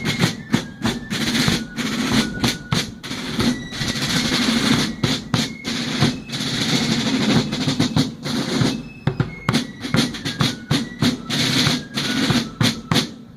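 Fife and drum corps playing a march: a high fife melody moving note to note over snare drum rolls and bass drum beats.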